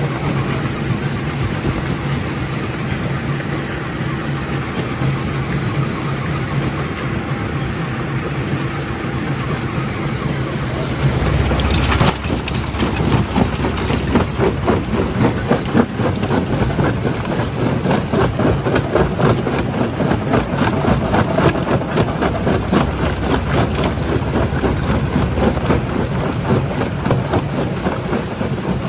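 Rock crusher running: a steady heavy engine hum, then about twelve seconds in a sudden knock and a dense, irregular clatter of rock being crushed over the engine.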